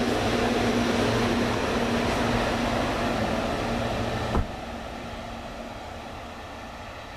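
Electric train of double-deck passenger coaches running past: steady rolling noise with a low electric hum. A sharp click comes about four seconds in, after which the sound drops off noticeably as the train moves away.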